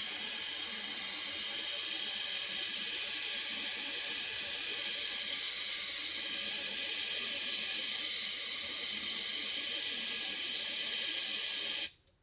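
Aerosol spray can sprayed without its straw nozzle, one continuous hiss held for about twelve seconds that starts and stops abruptly.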